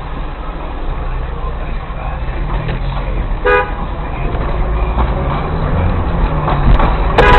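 Steady low rumble of a car on the road, with a short car horn toot about three and a half seconds in. Just before the end, a much louder sound with several held tones cuts in suddenly.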